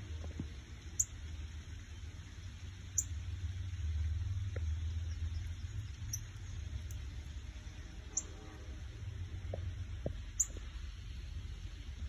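A small bird's short, very high chip notes, one every second or two, over a low steady rumble.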